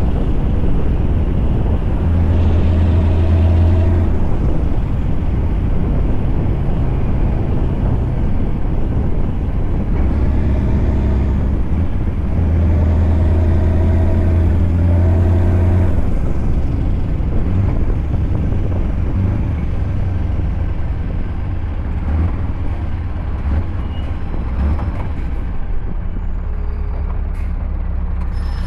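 Scania truck's V8 diesel engine running under way, its note swelling twice, first a few seconds in and again around the middle, then settling to a steadier, slightly quieter run.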